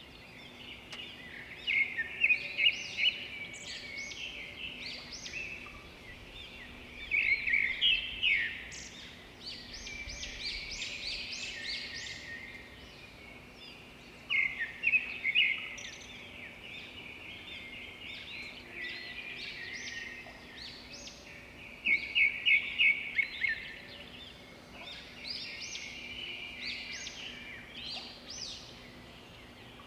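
Wild birds chirping and calling in repeated bursts of quick, high chirps, with quieter twittering between the bursts.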